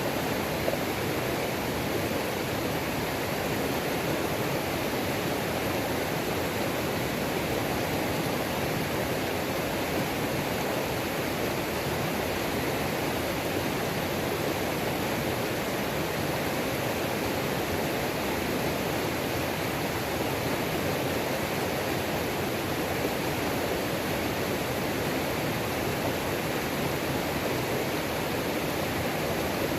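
Waterfall on a mountain creek, its water rushing in a steady, unbroken roar that doesn't change.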